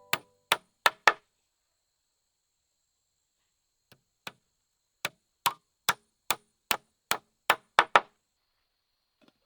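Repeated sharp knocks of a hand tool striking: four blows, a pause of nearly three seconds, then a steady run of about a dozen more at two to three a second.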